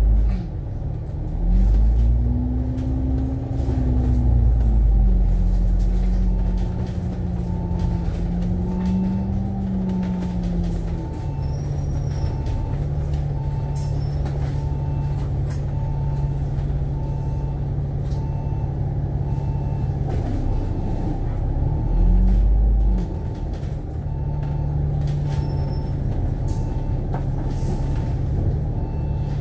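Alexander Dennis Enviro500 MMC double-deck bus heard from inside while driving, its engine rising in pitch as it pulls away early on and again about 22 seconds in, then settling to a steady hum. A short beep repeats about every 0.7 seconds through most of the middle.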